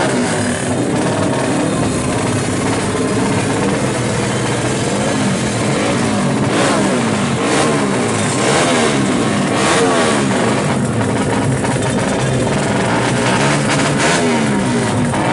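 Two-stroke drag-bike motorcycle engine with a racing ignition, revved over and over, its pitch rising and falling in quick blips.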